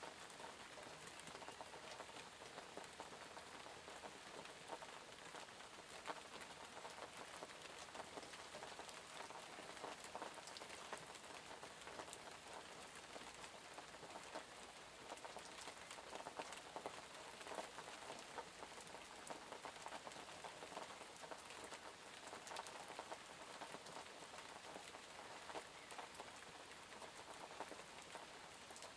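Steady light rain pattering on surfaces, with many small, distinct drop ticks.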